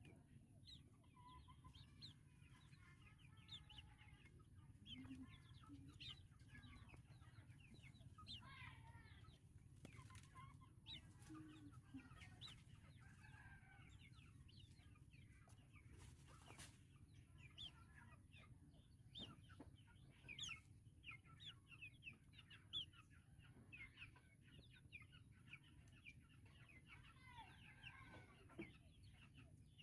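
White-breasted waterhen chicks peeping faintly, many short high calls in quick scatter, over a steady low hum.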